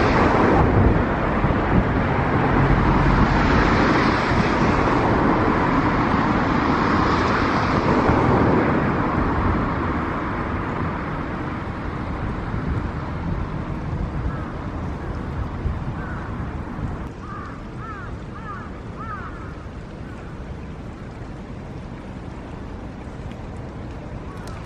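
Steady rushing of a mountain stream, louder over the first ten seconds and then easing off. A few short, faint chirps come in twos and threes a little past the middle.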